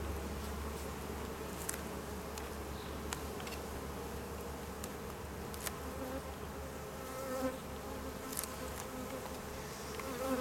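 Honey bees buzzing steadily in and around an opened hive, a dense hum with a few faint clicks from frames being handled.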